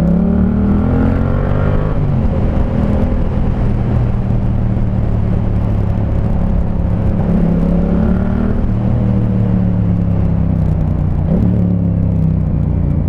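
Yamaha MT-07's parallel-twin engine through an SC Project Conic 2-in-1 exhaust with the baffle in, ridden and pulled up into the revs. The note climbs near the start and again about halfway, falling back after each climb, with wind noise over the microphone.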